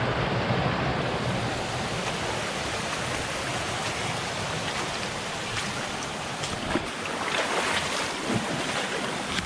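Steady rush of a monsoon waterfall and its stream. A few light crackles and rustles come in the second half.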